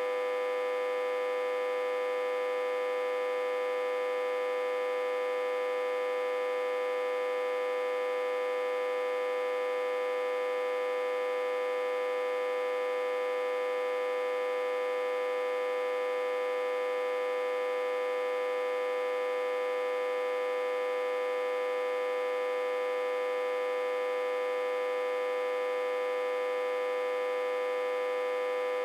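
Autotransformer humming steadily at one constant pitch with many overtones. The hum comes from the autotransformer being reverse-connected to a step-down transformer with about 60–80 V input.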